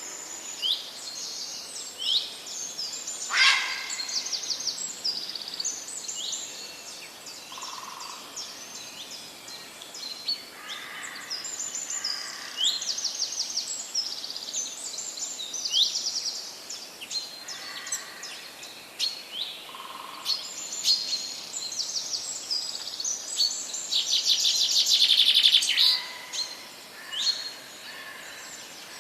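Several wild birds singing and chirping together, a dense chorus of short high chirps, falling notes and trills, with one fast, loud trill near the end.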